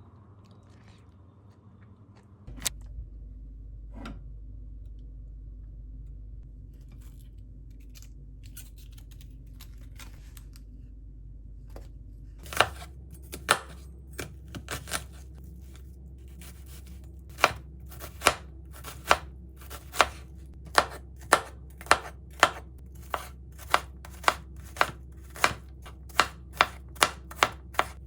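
Knife chopping on a cutting board: a slow run of single strokes that speeds up to about two a second near the end, over a steady low hum.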